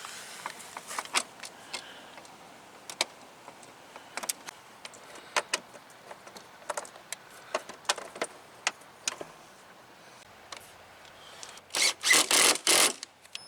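Scattered small clicks and taps as plastic body-panel fasteners and rivets on a Can-Am Spyder are handled and started by hand. Near the end come a few loud, short rasping bursts.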